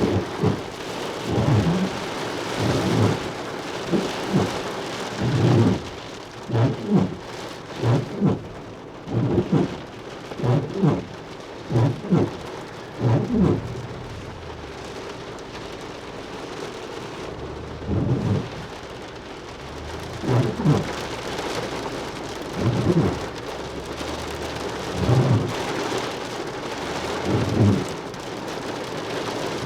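Small hail and heavy rain pelting down steadily, with repeated short, dull low thumps standing out above the noise. The thumps come about once a second early on and thin out after the middle.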